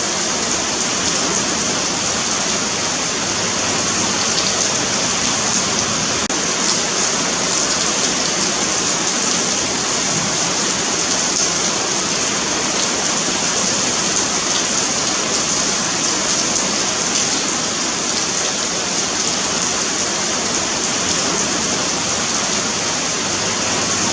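Steady rain falling on a paved sidewalk, a continuous patter of drops with a bright hiss.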